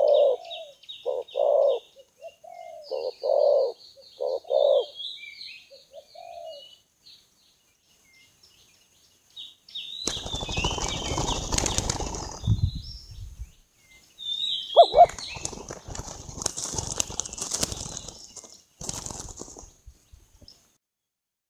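Spotted dove cooing in a short run of low notes, with small birds chirping high above it. About halfway through come several seconds of loud rustling noise, and more of it follows after a single coo.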